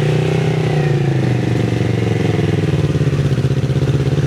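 Kawasaki Z650RS parallel-twin engine running through an IXIL MK2 full exhaust fitted with its dB killer, at low revs under light throttle. The note eases down in the first second or so, then holds steady.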